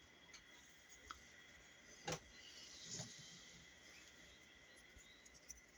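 Near silence with small handling noises as glue is worked around a speaker's basket: a sharp tap about two seconds in, a softer knock about a second later, and a few faint ticks, over a faint steady high whine.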